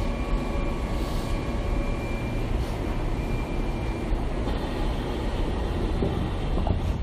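Keihan 3000 series train (car 3052) running, its Toyo Denki IGBT-VVVF traction inverter giving thin electric whines over a steady low rumble. The whine shifts to a higher pitch about two seconds in and again partway through.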